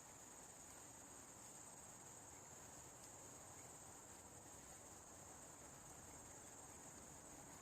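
Faint, steady high-pitched chorus of crickets, unbroken throughout, over low background noise.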